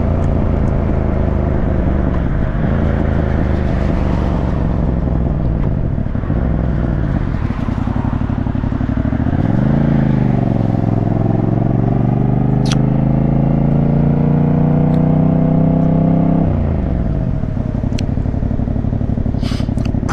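Yamaha MT-07 motorcycle engine running under way. About nine seconds in it revs up and holds a higher, steady pitch, then drops off about sixteen seconds in as the throttle closes.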